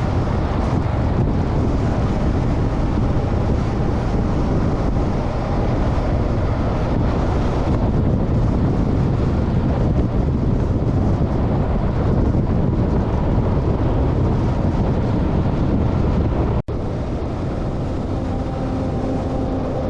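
Motorcycle running at road speed, a steady engine drone under heavy wind noise buffeting the microphone. An abrupt cut near the end drops it to a somewhat quieter stretch.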